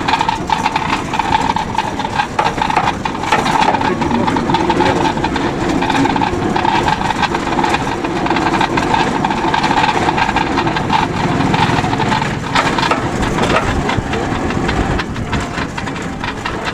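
A motor vehicle's engine running steadily, with continuous road noise.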